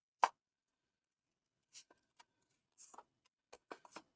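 A small paper square being folded and creased by hand: one sharp crisp crackle just after the start, then scattered light paper rustles and taps.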